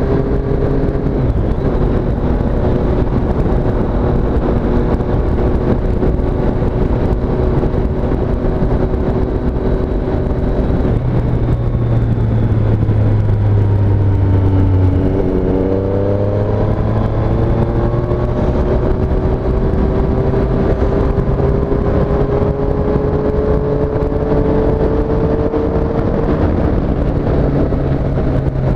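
A 2017 Triumph Street Triple S motorcycle's 765 cc inline three-cylinder engine under way. It holds a steady pitch, drops briefly about halfway through, then climbs slowly as the bike accelerates, and eases off near the end, with a steady rush of wind noise underneath.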